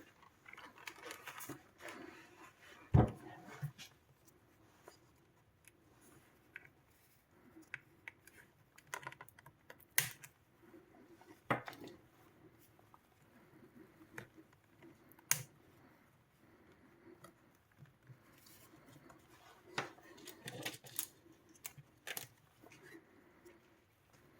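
Sonos Playbar casing being handled and pried at to get it open: scattered clicks, taps and knocks, with one heavier knock about three seconds in.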